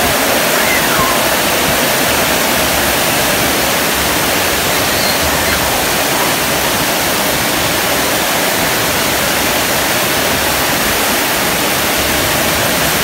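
Heavy rain falling on corrugated metal roofs and foliage: a loud, steady hiss.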